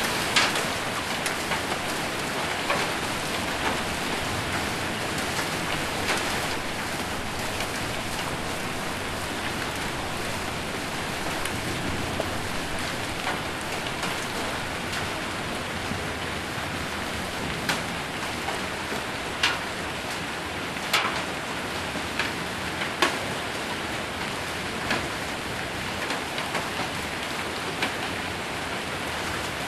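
Steady heavy rain with hailstones striking a metal roof, giving a constant hiss with scattered sharp clicks every second or few seconds.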